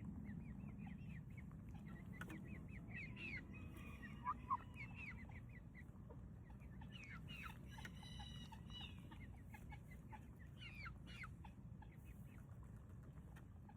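Chickens clucking faintly, with many short high calls scattered throughout, over a steady low background rumble. Two brief knocks a little after four seconds in.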